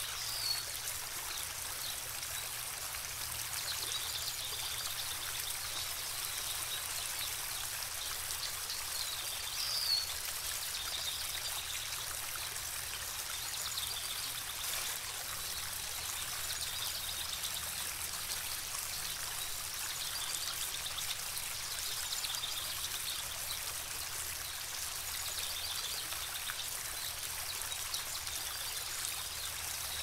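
Steady hiss of running water, with short high bird chirps every few seconds over it; two sharper calls stand out, one just after the start and one about ten seconds in.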